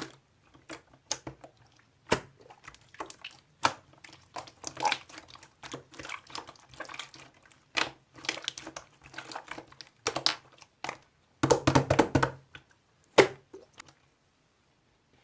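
Slime being pressed, poked and stretched by hand, giving irregular sticky clicks, pops and crackles, with a dense flurry of them a little before the end. The sounds then stop.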